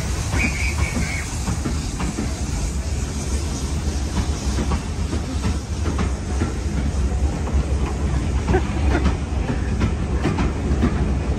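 A train of vintage railway passenger coaches rolling past a platform: a steady low rumble with scattered clicks from the wheels.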